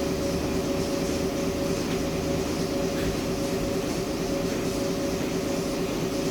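A steady mechanical drone: a constant hum with a couple of held tones and no change in speed.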